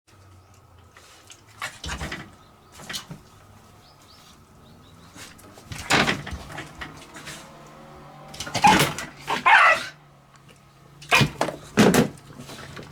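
A Shiba Inu giving several short barks spread through a few seconds.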